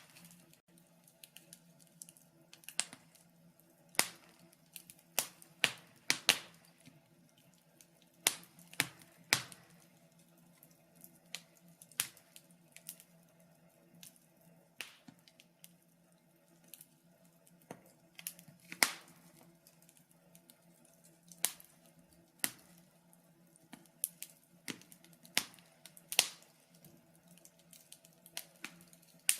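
Wood fire in a fireplace crackling, with irregular sharp pops and snaps of burning logs, some louder than others, over a faint steady hum.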